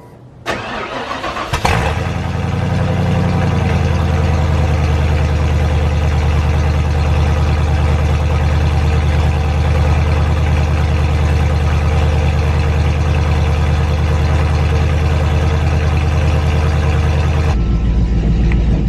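Ford Bronco's engine cranking and catching about two seconds in, then running steadily at idle. Near the end the engine sound changes abruptly.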